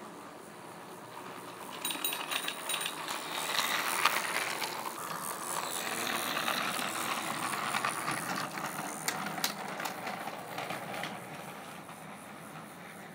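Trackmaster 2 Thomas and the Jet Engine toy engine's small battery-powered gear motor whirring as it runs along plastic track pulling its trucks, getting louder about two seconds in as it comes close and fading near the end. Clicks and rattles sound over the whirr; the owner is unsure of the clicking's cause but suspects the activation tab sits too close to the gear.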